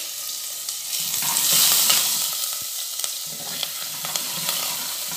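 Chopped ginger and green chillies sizzling in hot ghee with cumin seeds and asafoetida in a pressure cooker, as the tempering for a curry is fried. A spoon stirs them, with light clicks against the pan. The sizzle swells about a second in.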